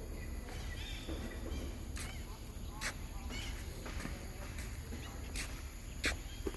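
Scattered short, high animal chirps and calls over a steady low outdoor rumble, with sharp calls about two, three, five and a half and six seconds in.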